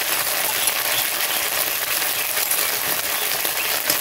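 Spice paste with green chilli sizzling steadily in hot mustard oil and a little water in an aluminium kadai. A couple of light metallic clinks come from a spatula touching the pan, one near the end as stirring begins.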